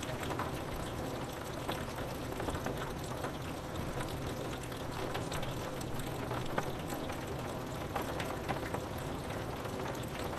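Steady rain falling, with many small drops tapping on window glass.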